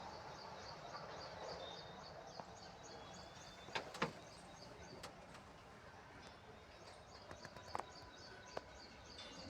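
Faint high-pitched chirping repeated about four times a second over quiet background noise, with a few sharp clicks, the loudest two just under halfway in.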